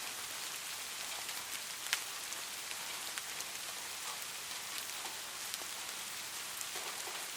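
Light rain falling steadily, a soft even hiss with scattered drop patters, one sharper drop about two seconds in.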